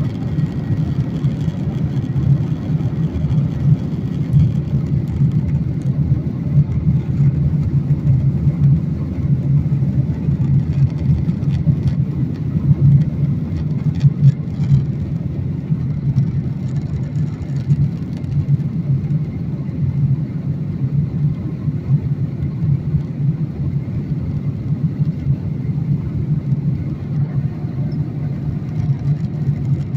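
Boeing 737-900ER's CFM56-7B turbofan engines at takeoff power: a steady, loud low rumble that holds at an even level throughout.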